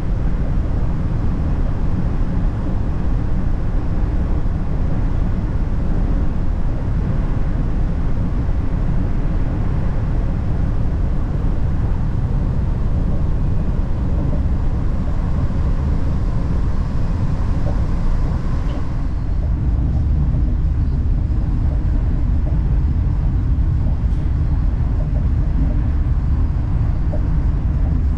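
Steady rumble of a Laos–China Railway passenger train running, heard from on board, heaviest in the low end. The higher hiss drops away about two thirds of the way through.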